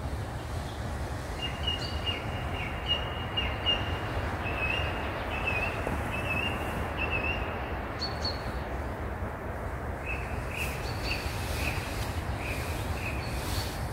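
Birdsong: a bird giving runs of short repeated chirping notes, one run in the first half and another starting about ten seconds in, over a steady background hiss and low rumble.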